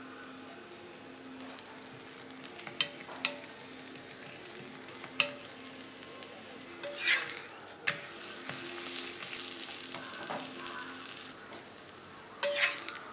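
A coconut-and-jaggery poli sizzling in ghee on a cast-iron dosa tawa, with a spatula clicking and scraping on the pan as it is pressed and turned over. The sizzle grows loudest for a few seconds after about eight seconds in.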